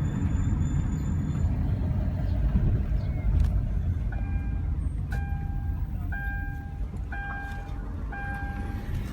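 Steady low rumble of a motor vehicle. From about four seconds in, an electronic beep sounds roughly once a second, each beep about half a second long.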